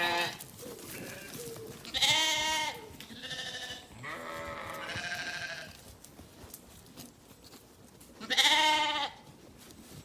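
Several bleats, one after another: a loud one about two seconds in, two quieter ones between about three and five seconds, and another loud one near the end.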